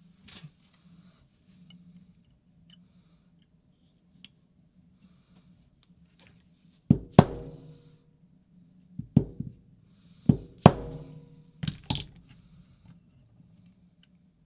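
Four pairs of sharp knocks on metal, starting about seven seconds in, each pair with a brief ringing tone after it, like hammer taps on a part held in a vise.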